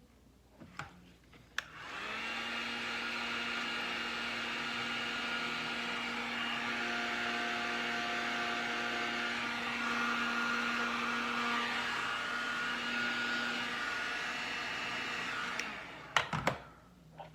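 Electric heat gun blowing steadily to shrink heat-shrink tubing over a wire splice, its fan motor giving a steady whine. It starts with a click about two seconds in and cuts off near the end, followed by a few clicks.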